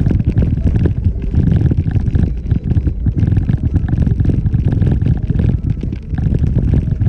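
2014 Jeep Wrangler Unlimited Rubicon driving off-road: a loud, uneven low rumble.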